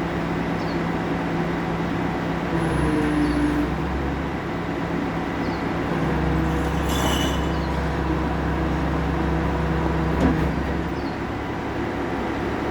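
Garbage truck's engine running steadily. Its sound grows heavier and lower twice for several seconds, and there is a short hiss about seven seconds in.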